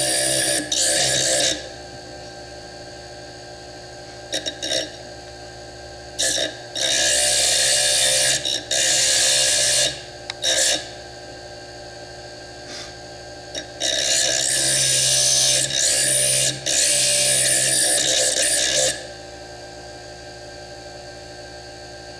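Foredom bench lathe running steadily while a small slitting disc grinds into fire agate in repeated bursts: several brief touches and longer cuts, the longest about five seconds starting some fourteen seconds in.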